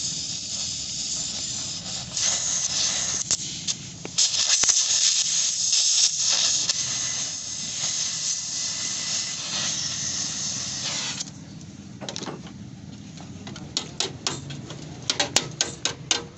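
A loud, steady hiss like compressed air or a spray gun for about eleven seconds, dropping out briefly a few times. It then stops, and a quick run of sharp taps follows near the end.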